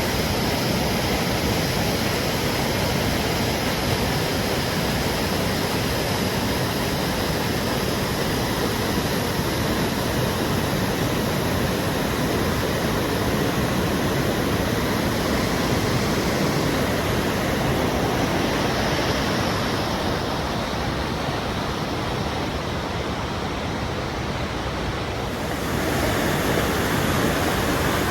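Waterfall: a steady rush of falling water. The high hiss dims about twenty seconds in and comes back abruptly a few seconds later.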